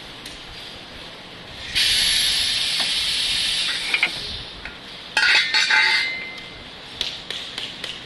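Radiator-core production machinery giving off two bursts of loud hissing: the first starts suddenly about two seconds in and lasts a couple of seconds, the second is shorter and louder with a rattling clatter around five seconds in. Light metallic ticks and clinks sound between and near the end.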